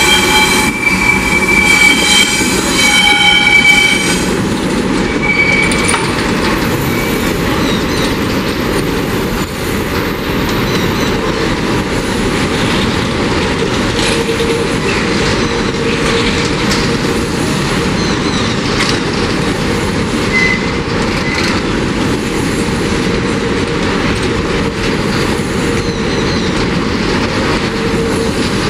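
Freight train wagons rolling through a tight curve: a steady rumble of steel wheels with faint regular clicks over the rail joints, and high wheel squeal during the first few seconds, with a few brief squeals later on.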